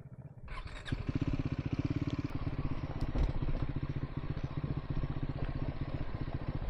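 Triumph Scrambler 400 X's single-cylinder engine running steadily, its firing pulses closely and evenly spaced. It comes in full about half a second in, after a muffled moment.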